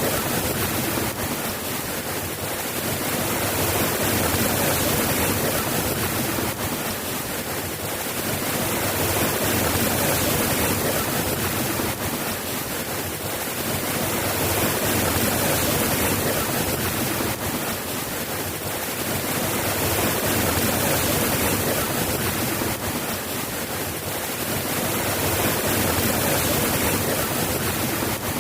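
Steady rain falling, a dense even hiss that swells and eases gently every five or six seconds.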